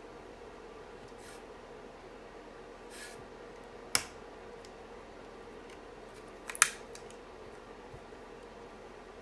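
Sharp clicks of keyboard parts being handled during a mechanical keyboard build: one about four seconds in and a quick double click about two and a half seconds later, over a steady faint hum.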